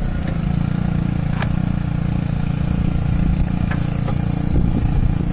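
A vehicle engine idling steadily with a low, even hum, with a few light clicks over it.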